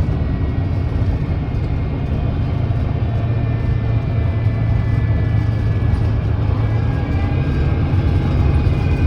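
Volvo D9B 9.3-litre diesel engine of a Volvo B9TL double-decker bus running steadily under way, a low hum with a faint high whine above it. The pitch shifts slightly about seven seconds in.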